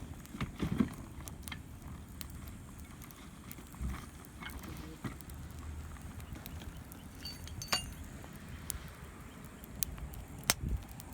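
Wood campfire crackling, with sharp pops scattered at irregular intervals, a cluster near the start and single louder pops near the middle and near the end.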